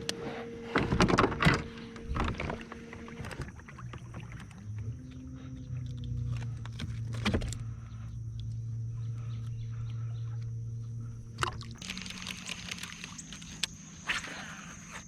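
Knocks and rattles of gear against a plastic fishing kayak, loudest in the first couple of seconds. Under them runs a steady electric motor hum that drops to a lower, louder tone about four seconds in and shifts again about twelve seconds in, like a kayak trolling motor changing speed.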